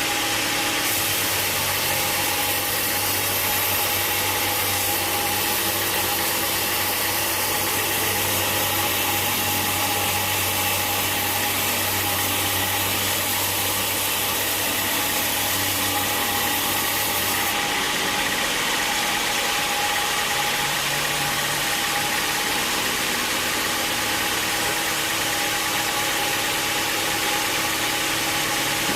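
Sawmill machinery running steadily with an engine hum and a constant whine. A higher hiss joins about a second in and stops after about 17 seconds.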